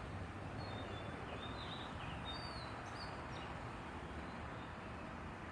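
Steady low hum of road traffic, with several short, high bird chirps in the first half.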